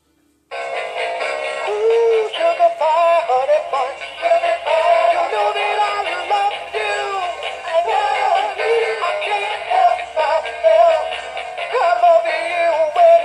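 Battery-powered Valentine's plush gorilla toy playing its song, a singing voice with music, starting suddenly about half a second in as the repaired toy works.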